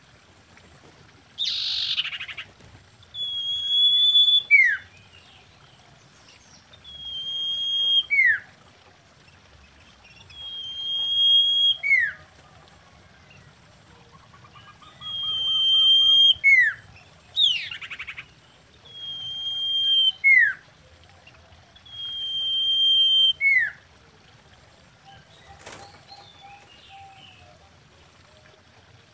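Common iora calling: a long whistle held on one pitch that breaks into a short falling note, repeated six times about every four seconds. Two harsh rasping notes come in, one near the start and one about two-thirds through.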